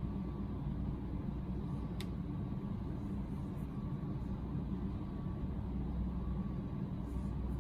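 A steady low rumble, with a single sharp click about two seconds in.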